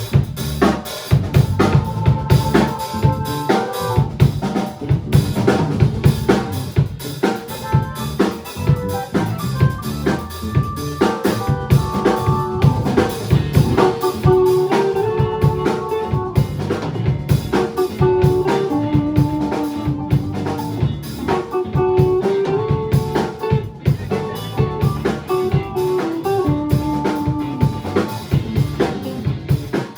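A band playing live, a drum kit keeping a busy, steady beat with snare and bass drum hits, under a stepping melodic line.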